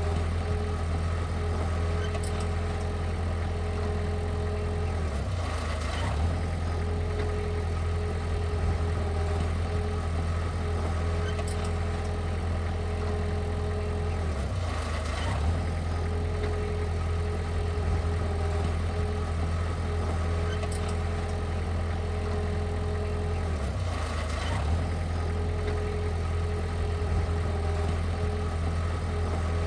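Diesel engine of heavy earthmoving equipment running steadily, its note dipping briefly about every nine seconds as the load changes.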